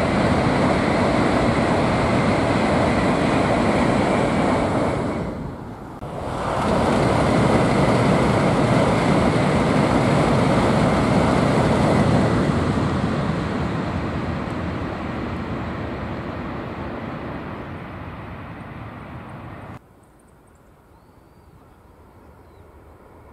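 Tokaido Shinkansen bullet train crossing a steel truss railway bridge: a loud, steady rush and rumble of the train on the bridge. It dips briefly about a quarter of the way in, rises again, then fades away and drops off suddenly near the end to a quiet background.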